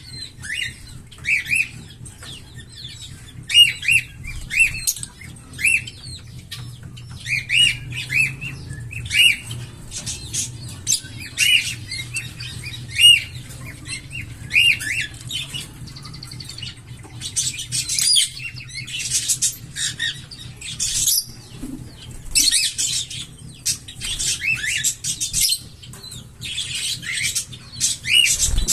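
Small pet parrots chattering: a stream of short chirps, with scratchier calls crowding in and growing busier in the second half, over a faint low steady hum.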